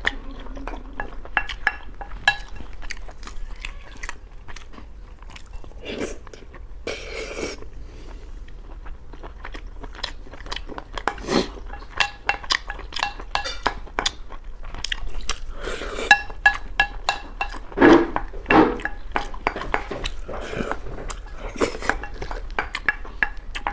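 Close-miked eating sounds: a person chewing and biting mouthfuls of braised pork over rice, with wet mouth clicks and smacks and the odd tap of a utensil on the bowl.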